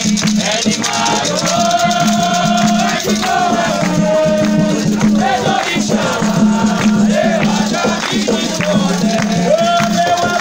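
Ritual chanting from an Afro-Brazilian Xangô ceremony, with voices holding long, wavering sung notes over shaken rattles and percussion.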